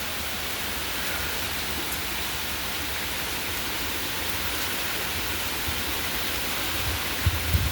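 Heavy hurricane rain falling in a steady, even hiss. Near the end, low gusts of wind buffet the microphone.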